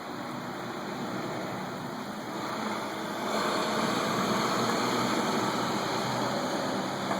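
A steady rushing noise with a low hum like a distant engine running, growing louder about three seconds in.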